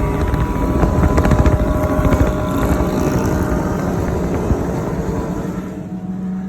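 A group of motorcycles running loud, their exhausts pulsing rapidly, easing off somewhat near the end.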